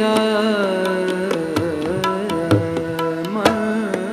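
Sikh kirtan in Raag Malhar: a male voice draws out and ornaments a long sung vowel, gliding up and down in pitch over a steady harmonium, while tabla plays strokes, with deep bass-drum thuds about two and a half seconds in and a sharp stroke near the end.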